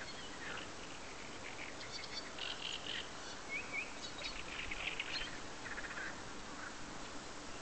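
Small birds chirping and trilling, with short quick runs of high notes that come thickest in the middle seconds, over a faint steady outdoor hiss.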